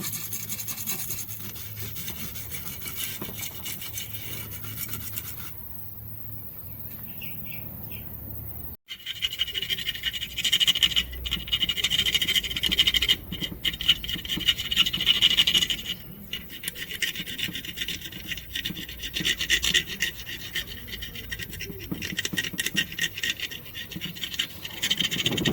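Fast, repeated hand scraping and rubbing strokes, as in scrubbing or sanding a blender part. The sound breaks off for an instant about nine seconds in, at a cut, and comes back louder.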